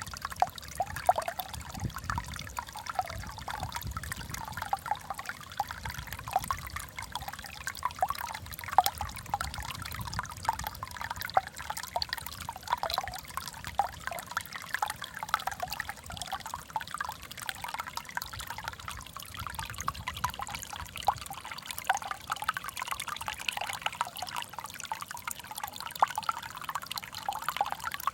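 Water trickling and burbling steadily in a small aquascape, with a constant patter of small splashes and drips.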